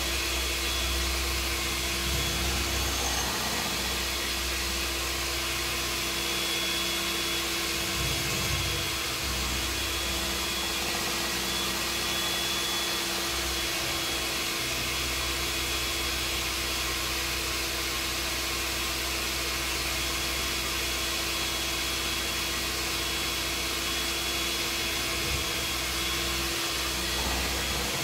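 Steady whir of an electric kitchen appliance's motor or fan, with a constant hum under a hiss of air.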